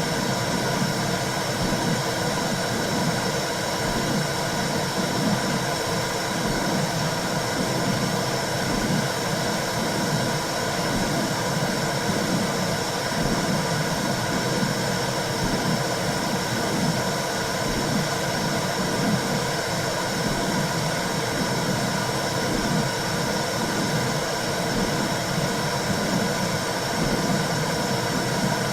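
Womb sound for soothing a newborn: a steady whooshing hiss with a slow, even low pulse about once a second.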